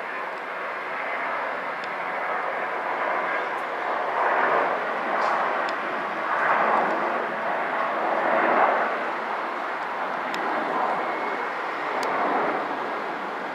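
Jet roar from an Airbus A321's twin IAE V2533-A5 turbofans during takeoff, an even rushing rumble that swells and eases in several waves.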